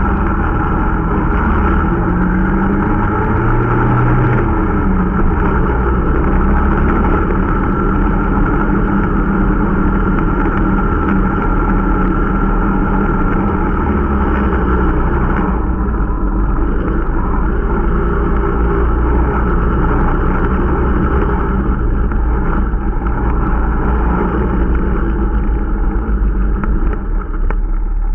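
Irbis Dingo T125 snowmobile's 125 cc engine running steadily under way on a break-in ride, loud throughout, its note shifting about halfway through.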